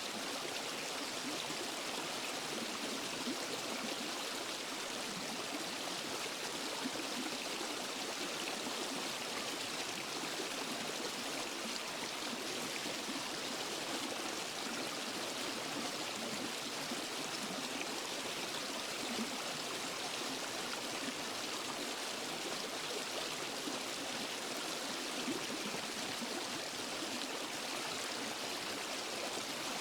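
Steady rush of a waterfall and forest stream, an even hiss of falling and flowing water with no breaks.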